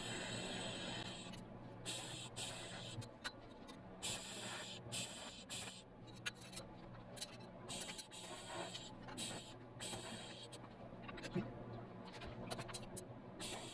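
A welder tack-welding muffler pipes: a steady hissing arc for about the first second and a half, then a string of short crackling bursts of uneven length, one per tack. A low steady hum runs underneath.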